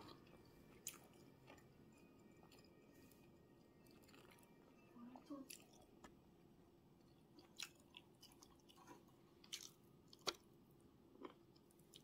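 Faint eating sounds: quiet chewing with a dozen scattered small clicks, the sharpest about ten seconds in.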